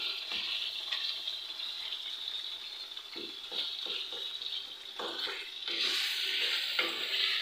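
Beef karahi masala with tomatoes sizzling in a karahi while a wooden spatula stirs it, scraping and knocking against the pan now and then. The sizzle gets louder about six seconds in.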